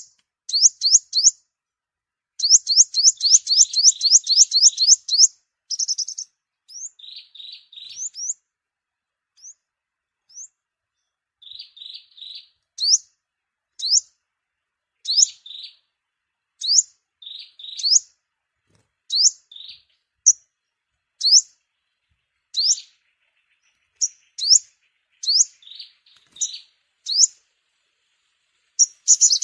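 Sunbird calling to its flock: fast runs of high, thin chirps, then single sharp downward-sweeping chirps about one a second, mixed with short lower buzzy note clusters.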